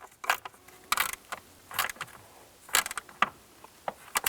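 Ratchet wrench clicking in short bursts, about seven strokes, as it tightens the top nut on the mirror's mounting stud.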